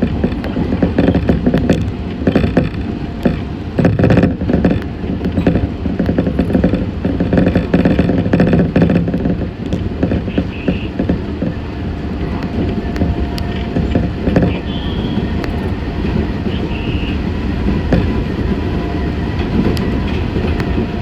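Meitetsu 6500 series electric train running, heard from inside the car: a steady low rumble of motors and wheels on the track, with many short knocks and rattles, and a steady whine.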